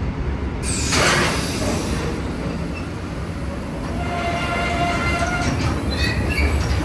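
Train moving at the platform with a steady low rumble. A sudden rush of noise comes a little over half a second in, and a steady high squealing tone sounds from about four seconds in until just before the end.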